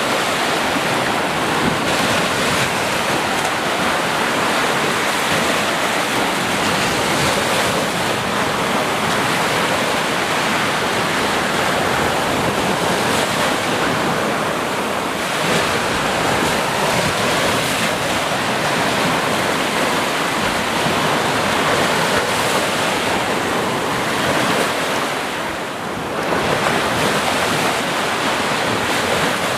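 Ocean surf: waves breaking and washing continuously in a dense, steady rush, swelling and easing slowly, with a brief lull about three quarters of the way through.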